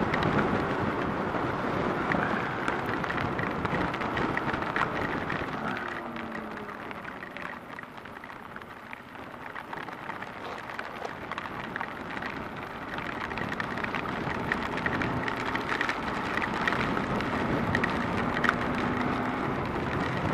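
Riding noise of a Kawasaki KLR650 single-cylinder motorcycle in heavy rain and wind: rushing wind with raindrops crackling against the microphone over the engine. The rush eases as the bike slows about eight seconds in, then builds again as it picks up speed.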